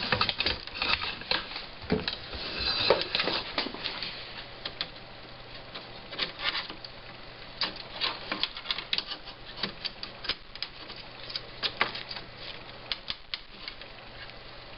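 Irregular clicks, taps and rustling of hands handling the opened monitor, its power board and the test leads.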